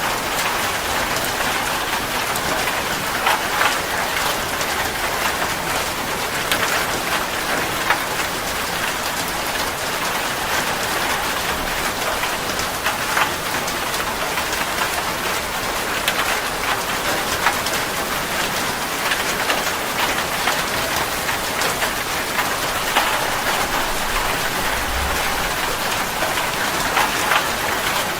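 Steady rain falling: an even hiss with many scattered sharper drops and splashes.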